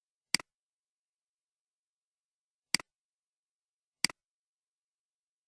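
A computer mouse button clicked three times, each a sharp click with a softer release right after it. The first click comes just after the start; the other two come close together, a little over a second apart, in the second half.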